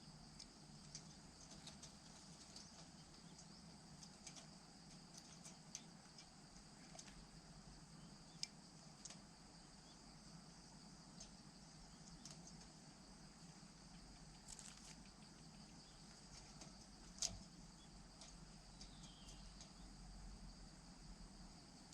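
Faint, steady high trilling of insects, with scattered faint clicks; the loudest is a sharper click about 17 seconds in.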